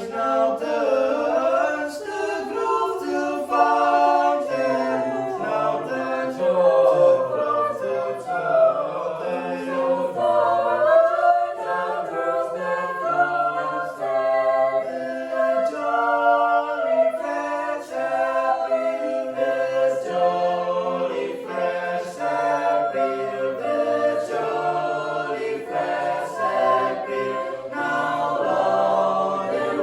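Choir singing a cappella in several harmonized voice parts, the lines moving in pitch together at an even, full level.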